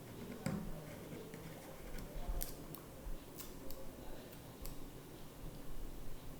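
A few scattered light clicks and rustles from handling small paper star stickers, peeling them off the sheet and pressing them on.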